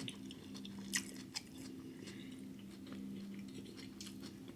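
Close-miked chewing of a mouthful of rice, sausage and cucumber: soft wet mouth clicks and small crunches at irregular intervals, over a faint steady hum.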